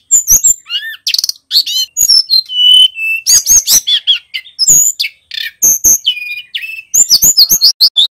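Male tledekan gunung songbird singing a fast, varied run of high chirps and whistled notes, broken by brief pauses.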